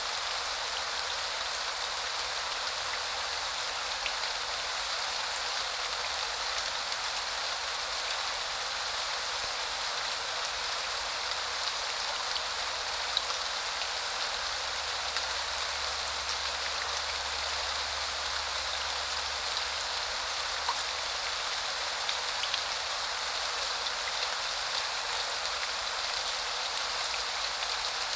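Steady spring rain falling, an even hiss with scattered individual drops ticking on surfaces.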